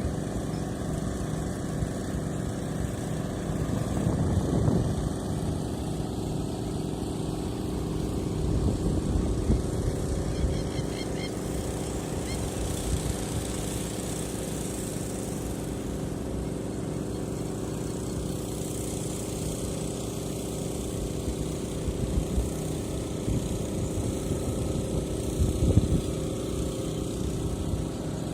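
Engine-driven flood pumps running steadily with an even hum, pumping out floodwater, with a few brief louder swells.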